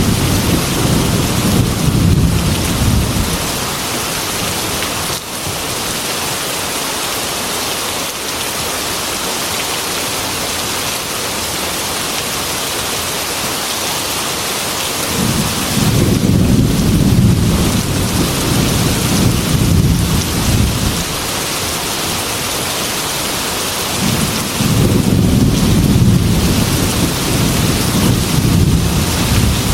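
Heavy rain beating on a glass window, a steady hiss, with deep rolls of thunder: one dying away in the first few seconds, another starting about halfway and lasting several seconds, and a third near the end.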